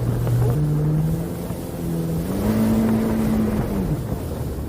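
Jet ski engine running on the water, its pitch stepping up about half a second in, climbing higher a couple of seconds in and dropping back near the end as the throttle is eased off.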